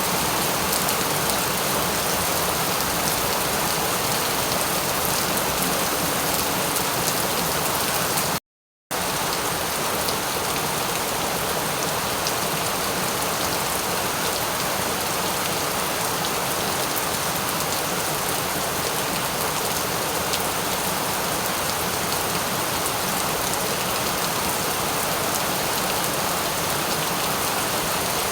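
Steady rain falling, a dense even hiss with fine drop ticks. About eight and a half seconds in, the sound cuts out completely for about half a second, then resumes unchanged.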